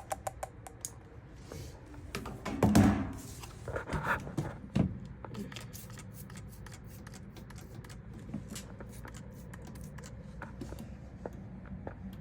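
Handling noise: scattered clicks and rustles, with a louder clatter about three seconds in and a couple more knocks soon after, over a steady low hum.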